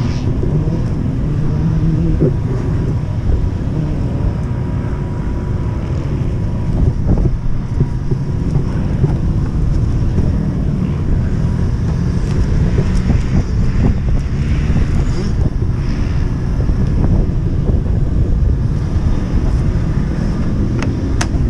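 Dirt bike being ridden: its engine running under heavy wind buffeting on the microphone, a steady loud low rumble.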